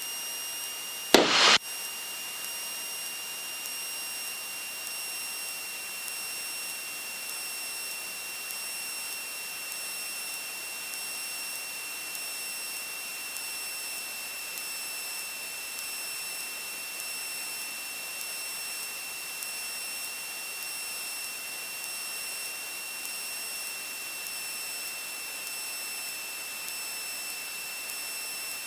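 Steady hiss with a thin, constant high whine in a light aircraft's headset-intercom audio, with a short loud burst of noise about a second in.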